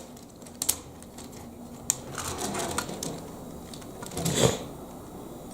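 Lego Technic plastic pieces clicking and clattering as they are handled and fitted together, with scattered single clicks and a short, louder rustle about four seconds in.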